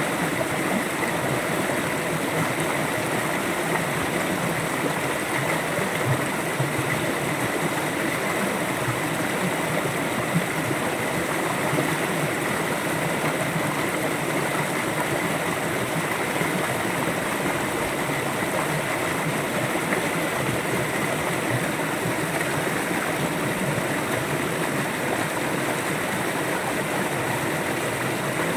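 A river flowing: a steady, even rush of water with no breaks.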